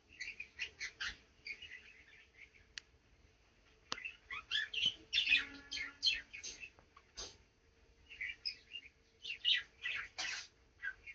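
Small cage birds chirping, with rapid high-pitched chirps coming in three bursts separated by short pauses, and a few sharp clicks in between.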